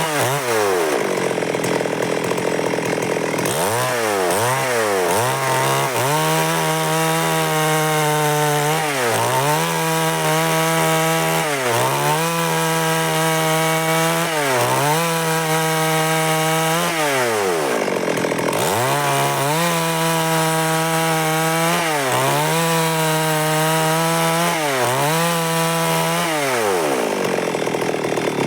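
Stihl MS382 two-stroke chainsaw cutting wood, running at high revs. The engine pitch dips sharply and climbs back about ten times.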